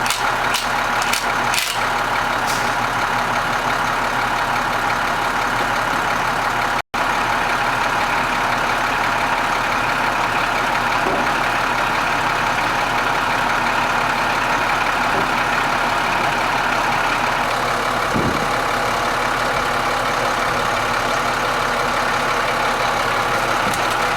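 Truck engine running steadily at idle, driving the hydraulics of the freshly repacked IMT 5200 crane cylinder, with a steady whine over the engine. The sound cuts out for an instant about seven seconds in.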